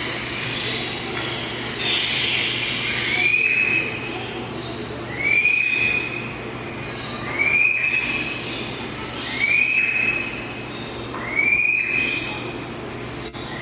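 A bird giving a loud whistled call over and over, about every two seconds, each call sliding up and then held briefly.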